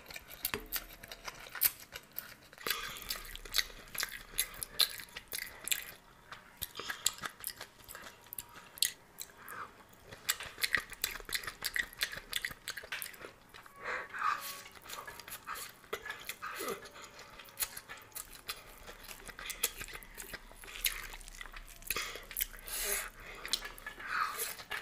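A person chewing mouthfuls of spicy vegetable chow mein noodles close to the microphone, with many quick mouth clicks and smacks throughout.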